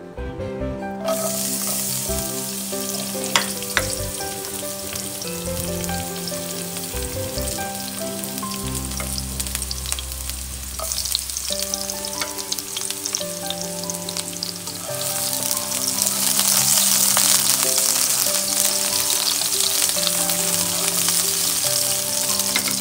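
Sliced shallots and garlic sizzling in hot oil in a wok. The sizzle starts about a second in, swells louder in the second half, and has a sharp click about three seconds in.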